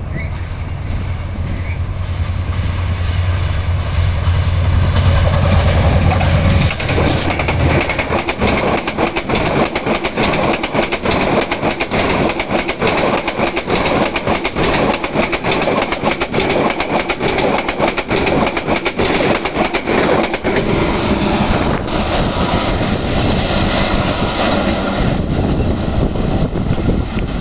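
EMD GT38AC diesel-electric locomotive passing at speed with a deep engine rumble that builds for the first several seconds and drops away about seven seconds in. The passenger coaches then run past with a rapid, steady clickety-clack of wheels over the rail joints.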